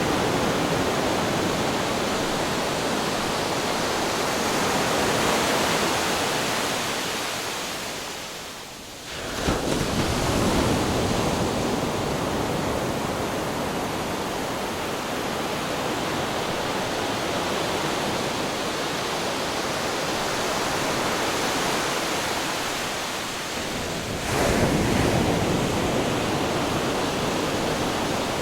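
Ocean waves breaking on rocks: a continuous wash of surf, with a sudden crash about nine seconds in after a brief lull, and another about twenty-four seconds in.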